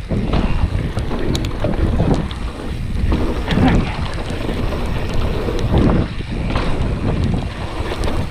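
Wind rushing over the microphone as a mountain bike rolls down a wet trail, with tyre noise over the ground and scattered clicks and rattles from the bike.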